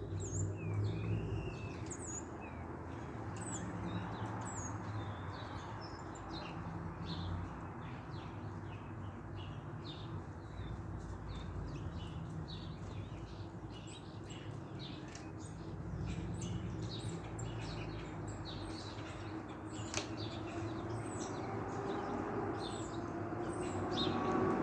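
Small songbirds chirping and twittering in quick short notes, over a low steady rumble, with one sharp click about twenty seconds in.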